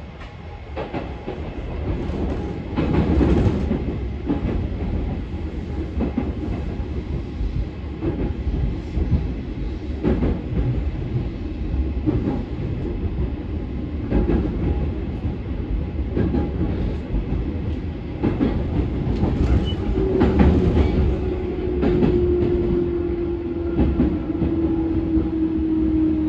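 Interior running sound of a JR 211 series 5000-subseries electric train: a steady rumble of wheels on rail, with clacks over the rail joints. It grows louder over the first two seconds. From about 20 seconds in, a whine slowly falls in pitch.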